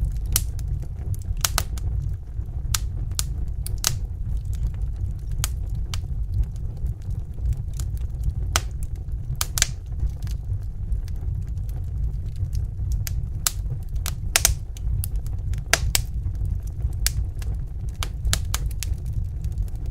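Wood fire crackling: irregular sharp pops and snaps, a few louder than the rest, over a steady low rumble of burning flames.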